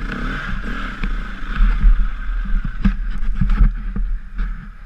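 Enduro dirt bike engine running, with a steady low rumble and scattered knocks.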